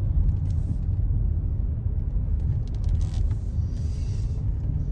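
Semi truck driving along: a steady low engine and road rumble.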